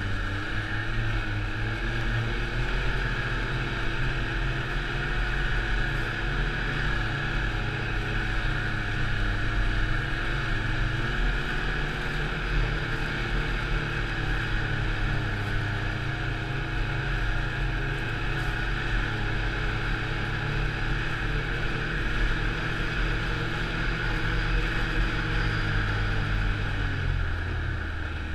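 Snowmobile engine running steadily under way, its pitch falling near the end as it eases off.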